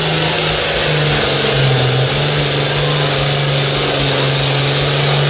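Pulling tractor's engine running hard under load, loud and steady, its pitch sagging briefly about one and a half seconds in before climbing back.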